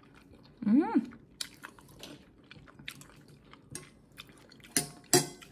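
A person chewing a mouthful of soft pancake with her mouth closed, with small wet mouth clicks throughout. About a second in there is a short hummed "mm" that rises and falls, and near the end come two sharper smacks.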